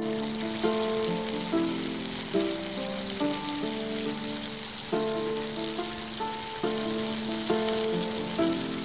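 Bhatura dough deep-frying in hot oil in a wok, a steady dense sizzle. Light melodic background music plays underneath.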